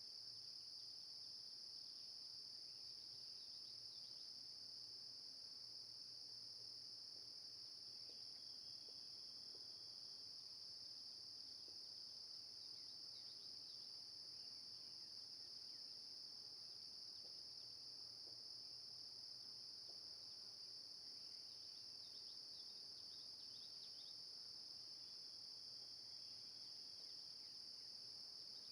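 Faint, steady high-pitched drone of an insect chorus, unbroken throughout.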